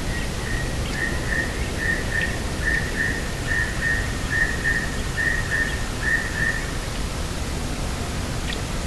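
Steady rushing wind noise, with a bird repeating a short, high whistled note about twice a second, the notes stopping about seven seconds in.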